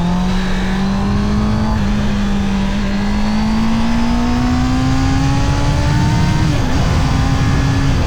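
Honda CB650R's inline-four engine pulling under acceleration, its note rising slowly and steadily as the revs climb, with a brief dip about two-thirds of the way through before it holds steady.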